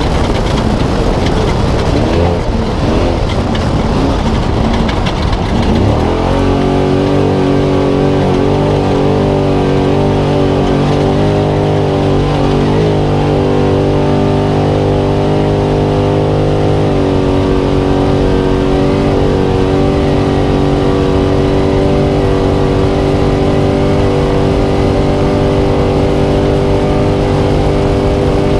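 Spec Trophy Truck engine heard onboard at race pace. It revs up and down unevenly for the first few seconds, then holds a steady high rpm for the rest, with the drivetrain and terrain noise underneath.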